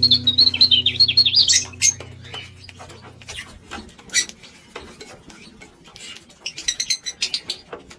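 Pet lovebirds chirping in a rapid, high-pitched burst that dies away about two seconds in. Then come scattered light clicks and taps, and a second short burst of chirps near the end.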